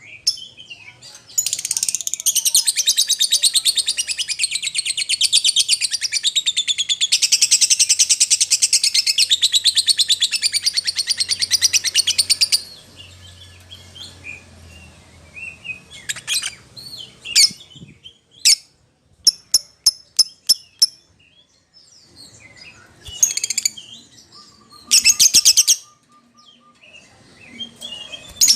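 Lovebird chattering in a long, very fast high-pitched trill that lasts about eleven seconds, followed by sharp single chirps and two short trill bursts near the end. It is a call to a companion or rival, used as a lure to get other lovebirds to answer.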